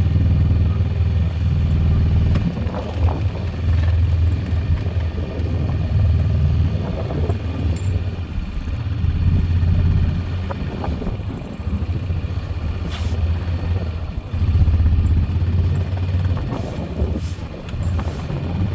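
Four-wheeler (ATV) engine running with a small snow plow, its level rising and falling as it works.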